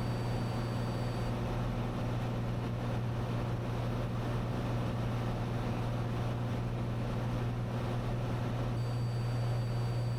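Steady drone of a Cessna 182's piston engine and propeller in flight, heard inside the cockpit: a constant low hum over an even rush of airflow noise.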